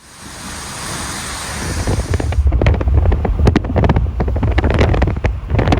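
Wind buffeting the microphone: a hiss for the first two seconds or so, then a heavy, gusty low rumble with irregular thumps.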